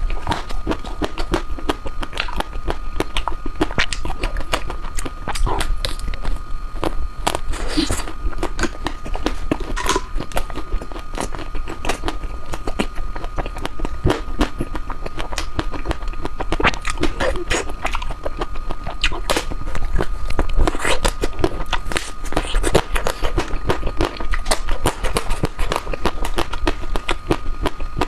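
Close-up mouth sounds of a person eating ice cream: a dense, uneven run of small wet clicks and smacks, with a steady thin high tone underneath.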